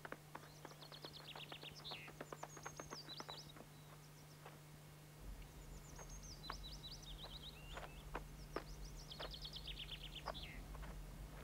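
Faint birdsong: repeated runs of quick, high chirps and trills, over a steady low hum.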